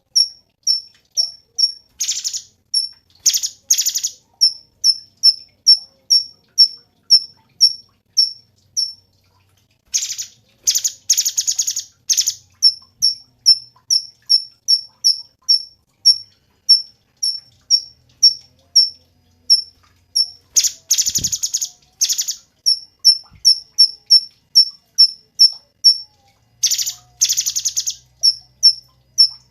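Cucak cungkok song: a run of short, high, identical chirps, about two to three a second, broken several times by bursts of fast, rattling trills.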